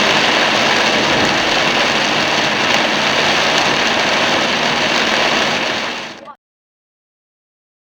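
Steady hiss of heavy rain and tyre spray over the engine of a moving car, heard from inside the car, fading away about six seconds in and cutting to silence.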